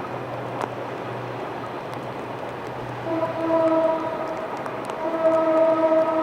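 A horn sounding in long held blasts starting about halfway through, over a steady rumble.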